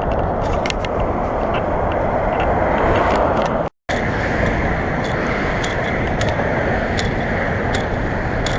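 Steady outdoor rushing noise with scattered light clicks. It breaks off into a split second of silence about four seconds in, then carries on as before.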